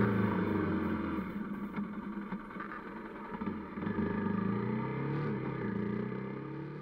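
Kawasaki KLX250's single-cylinder four-stroke engine: the engine note falls as the bike slows through the first second or so, then rises again about four seconds in as it accelerates, and holds steady.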